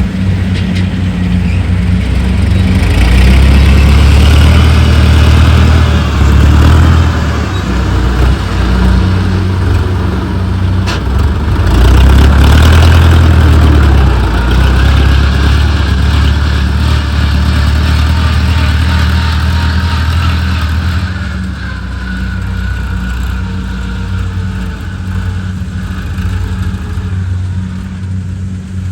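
Rice combine harvester running in the field, a steady engine hum with the noise of its machinery over it. It grows louder a few seconds in and again about twelve seconds in, then eases off somewhat after about twenty seconds.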